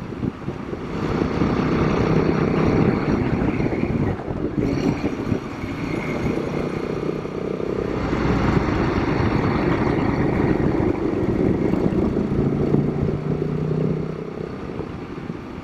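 Royal Enfield Himalayan 452's single-cylinder engine running at road speed on a motorcycle ride. It eases off briefly about four seconds in and fades somewhat near the end, under steady wind and road noise.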